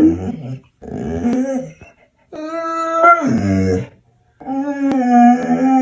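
A dog vocalizing in three long, drawn-out whining howls separated by short pauses. The second howl slides down in pitch at its end.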